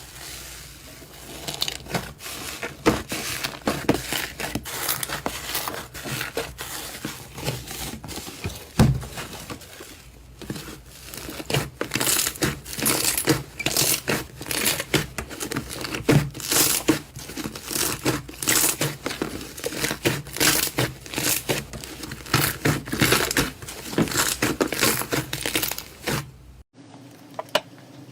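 Slime being squeezed and pressed by hand, making dense crackling and popping clicks in quick clusters. The sound cuts off abruptly near the end.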